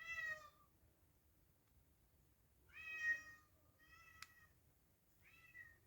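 A domestic cat meowing four times, short separate meows a second or more apart, with a brief click during the third.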